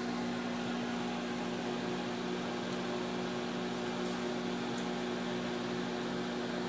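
Microwave oven running with a steady electrical hum and fan noise while it heats matches inside, with no crackling.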